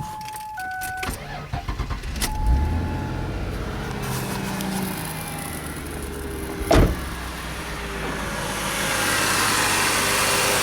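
A few electronic chime tones, then a 2000 Ford Taurus's 3.0-liter V6 cranks and starts about two seconds in and settles to a steady idle, its crankcase filled with automatic transmission fluid instead of oil to flush the engine. A single sharp knock sounds partway through.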